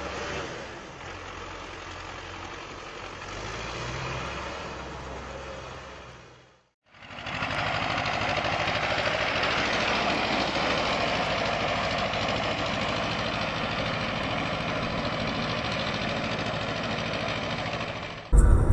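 Motor vehicle engine running with road noise, in two separate clips: a quieter stretch that fades out, a sudden break about seven seconds in, then a louder, steady engine and road noise.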